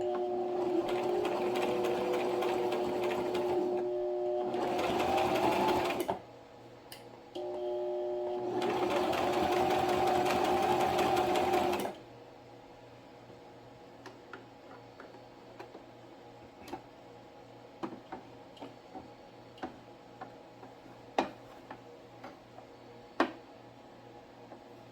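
Electric sewing machine stitching in two runs of about five seconds each, its motor giving a steady hum with a short stop between. After that it goes quiet apart from scattered small clicks and taps.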